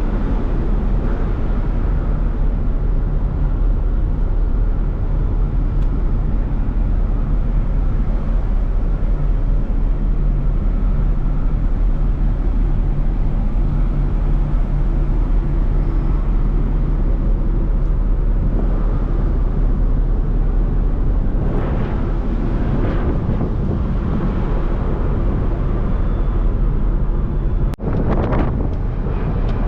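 Wind buffeting the microphone over the steady low drone of a ferry's engines, with a few louder gusts near the end.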